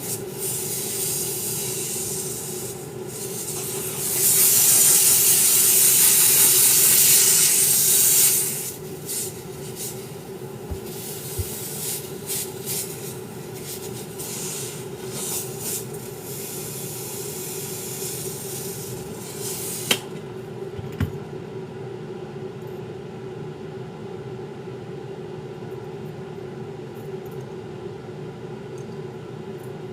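Hissing bursts of air or spray, the longest lasting about four seconds, starting about four seconds in. The bursts stop about twenty seconds in, leaving a steady low hum.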